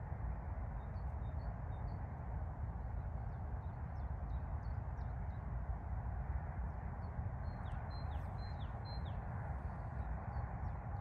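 Small songbirds chirping faintly over a steady low rushing background noise, with a run of four short falling notes near the end.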